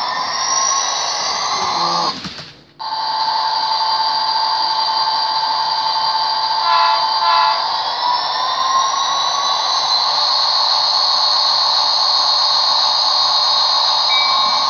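Electronic engine sound from a model diesel locomotive's sound system: a steady whining drone of several high tones. It cuts out sharply for a moment about two seconds in, gives a short pulsing sound around seven seconds, and rises in pitch a little later.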